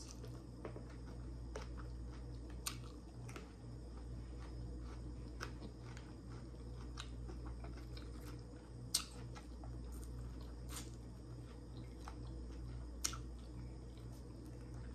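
Close, quiet chewing of crispy fried chicken, with scattered sharp crackles and mouth smacks over a steady low hum.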